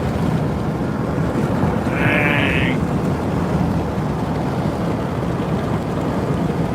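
Steady road, engine and wind noise inside a moving vehicle. About two seconds in there is a brief high-pitched sound lasting under a second.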